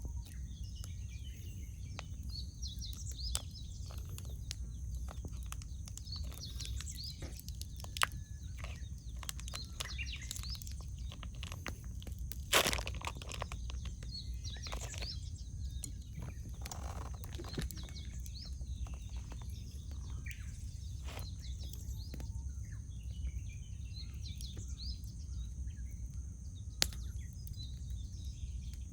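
Wood campfire crackling with scattered snaps, one sharp pop about twelve seconds in the loudest, and smaller ones about eight and twenty-seven seconds in. Small birds chirping throughout over a steady low rumble.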